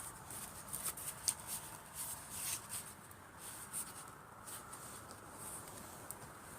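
Driftwood campfire crackling, with irregular sharp pops, the loudest a little over a second in.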